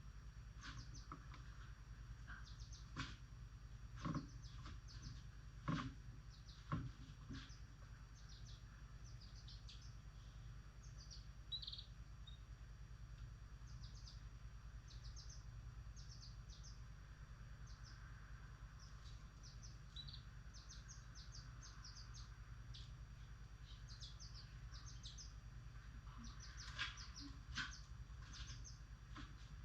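Pet lovebirds chirping in many short, high calls that come in quick runs. A few sharp clicks stand out, several in the first seconds and two near the end, over a steady low hum.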